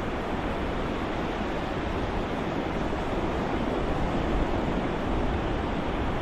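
Ocean waves white-noise soundscape: a steady, even wash of surf with no separate breakers standing out, swelling slightly about halfway through.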